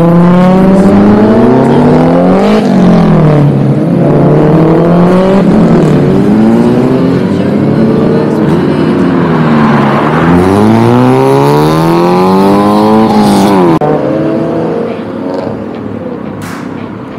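A car's engine revved hard, its pitch climbing and falling several times. Near the end the note drops off suddenly and the engine goes quieter.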